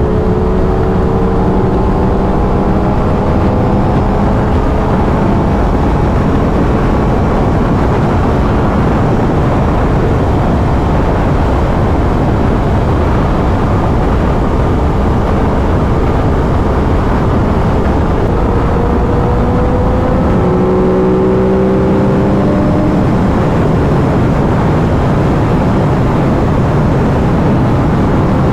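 Aprilia RS 660's parallel-twin engine on its stock exhaust, running at highway speed under a steady rush of wind noise. The engine note rises gently at the start and again past the middle, sinking into the wind in between.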